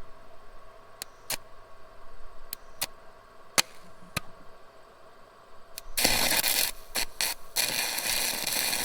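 Stick welder's arc crackling and hissing as a washer is tacked onto a bolt stub snapped off flush, starting about two-thirds of the way in and breaking off briefly a few times. Before it, a handful of sharp clicks.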